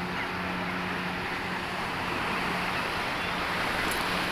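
A boat engine running at a steady pitch under a constant rush of wind and water.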